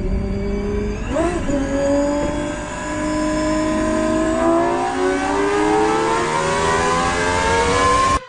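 Supercar engine accelerating hard, its pitch climbing steadily for several seconds after a brief wobble about a second in. It cuts off abruptly near the end.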